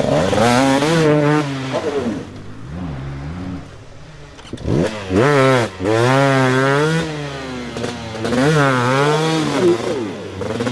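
Dirt bike engine revving hard, the throttle worked on and off so the revs climb and fall again and again. There is a quieter stretch from about two to four and a half seconds in.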